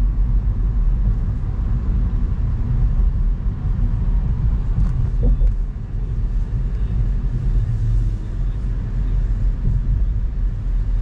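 Steady low road rumble of a car driving, as heard from inside the cabin.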